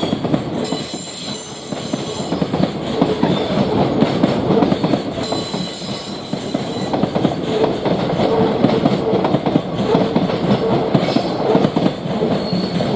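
Freight train wagons rolling past over rail joints in a dense, continuous clatter. High-pitched wheel squeal comes twice, about a second in and again about five seconds in.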